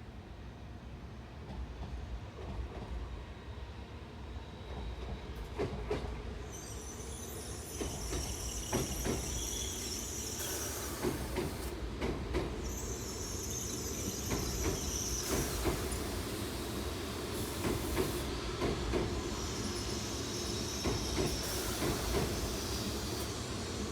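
N700S Shinkansen train moving slowly on depot tracks. Its wheels squeal high on and off from about six seconds in, with clicks of wheels crossing rail joints, growing louder as it comes nearer.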